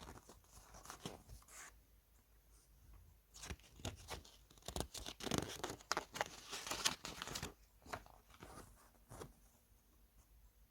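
A paper booklet being taken out of a disc case and handled: a run of short rustles and crinkles, busiest around the middle.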